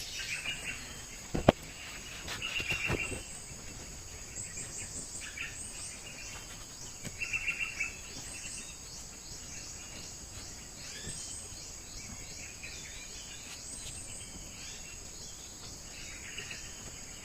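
Steady high-pitched insect chirring, crickets or similar, with birds chirping now and then. There is a sharp click or knock about a second and a half in.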